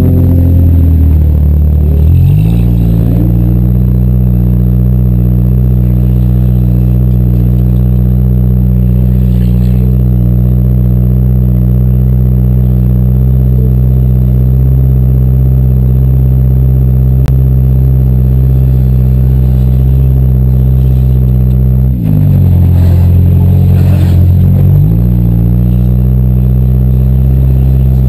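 Demolition derby car's engine running loud and steady at high revs. Its note drops and climbs back up twice: just after the start and again about 22 seconds in.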